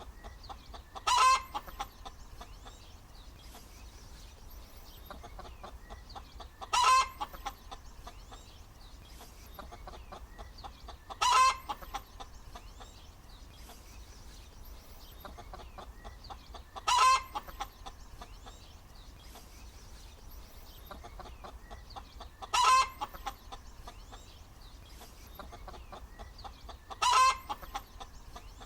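Hen cackling: six loud, short calls spaced about five seconds apart, each led by a quick run of soft clucks, with quieter clucking between them.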